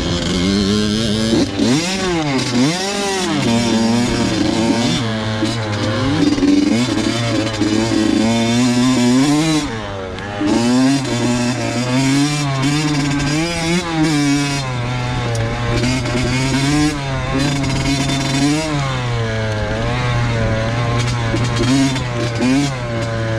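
Two-stroke dirt bike engine being ridden hard, its revs rising and falling over and over as the throttle is worked, with a short let-off about ten seconds in.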